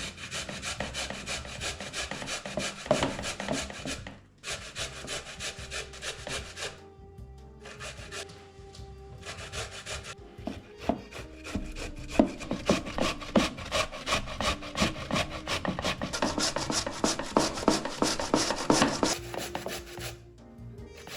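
Food being grated on a hand grater: rapid rasping strokes running on in long stretches, with short breaks about four and seven seconds in and again near the end.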